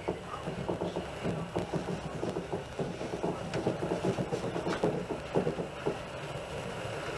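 Moving passenger train heard from inside the carriage: a steady rumble with many irregular rattles and knocks.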